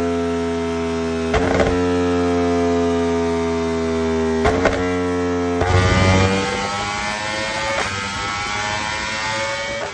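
Yamaha inline-four sport bike with an Arrow exhaust running at high revs, a steady pitched note that slowly sags, broken by two brief crackles. A little past halfway it gets louder and rougher and the revs begin to climb slowly, until the sound cuts off suddenly at the end.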